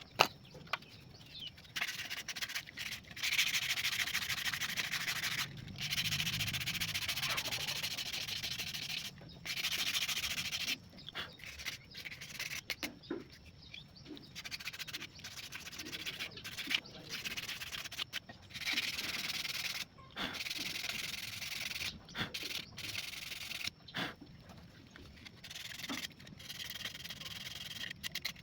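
Hand sanding of a wooden machete sheath: sandpaper rubbing in stretches of a few seconds, broken by short pauses.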